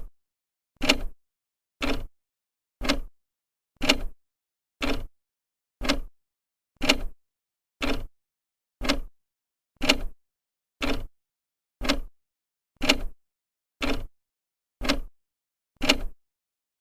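Old clock's second hand ticking, one sharp tick each second with silence between.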